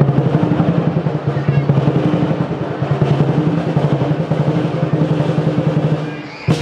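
Lion dance drum beaten in a fast, dense roll with cymbals clashing along. The roll stops about six seconds in, followed by one sharp closing hit.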